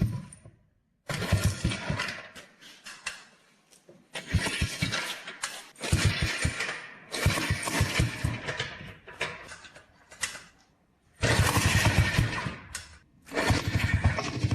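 Rebuilt single-cylinder two-stroke engine of a Xingfu 250 (a Chinese copy of the Yamaha TY250) being started on a stand, firing and running in about six short bursts that each die out after a second or two. The engine won't hold an idle, which the restorer puts down to the carburettor needing adjustment.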